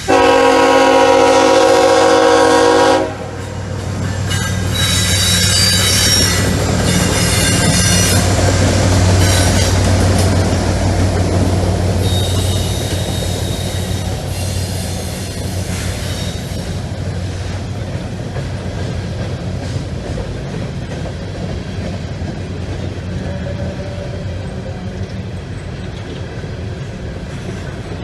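Diesel freight locomotive's air horn sounding one loud chord for about three seconds. The locomotive's engine then rumbles past with wheels squealing on the rail, and the freight cars follow with a steady rolling clatter.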